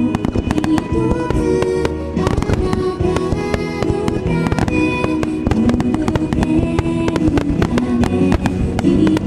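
A rapid barrage of firework shells bursting and crackling in a wide star-mine finale, many bangs a second, with music playing throughout.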